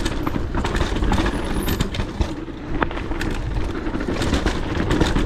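Giant Glory downhill mountain bike riding fast down a dirt trail: wind buffeting the microphone and tyre noise, with many small clicks and knocks from the bike rattling over the ground.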